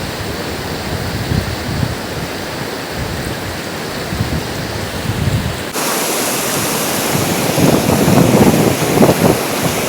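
Waterfall water rushing in a steady noisy roar. About six seconds in it abruptly turns louder and brighter.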